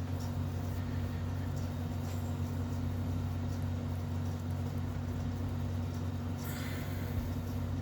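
Steady low hum, with faint wet squishing and rustling as an oil-soaked foam air filter element is squeezed and kneaded by hand; the rustling is a little louder near the end.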